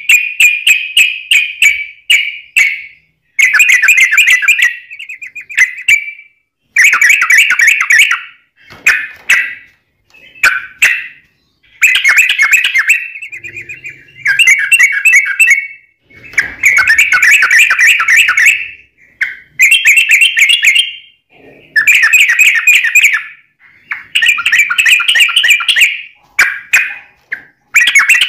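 Sooty-headed bulbul (trucuk) singing long, rapid trilling phrases one after another, each a second or two long with only short breaks between them.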